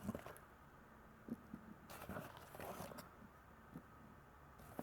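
Faint handling sounds of unpacking a packed box: soft rustling and a few light knocks as items are lifted and moved.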